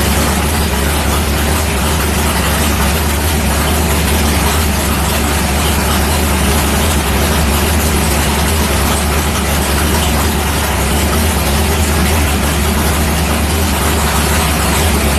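1964 Ford Fairlane's big-block Ford V8 idling steadily with a deep, even note.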